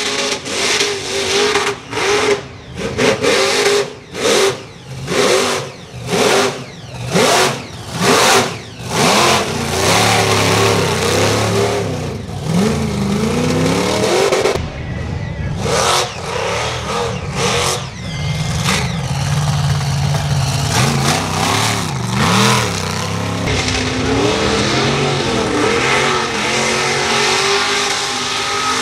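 Mega truck engine revving hard in a quick series of surges over the first ten seconds, then running at high revs with its pitch rising and falling.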